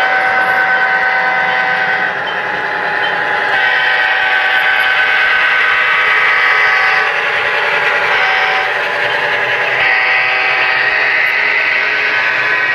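A model locomotive's sound-equipped horn blowing a chord in blasts: long, long, short, long, the grade-crossing signal, over the steady running sound of the train.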